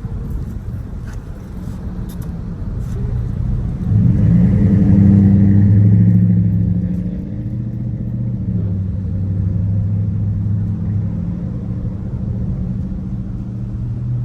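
Car engine running with road noise: a low steady hum that swells about four seconds in and then settles back.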